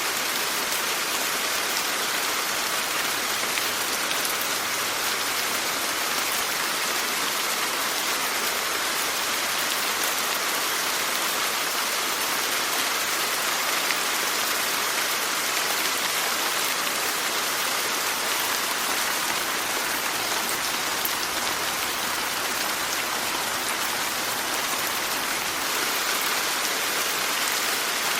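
Steady rainfall, an even hiss of many drops with the odd sharper tick of a single drop.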